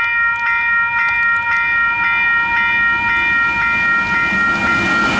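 Western Cullen Hayes electronic level-crossing bell ringing steadily at about two strikes a second. A train's rumble grows beneath it near the end.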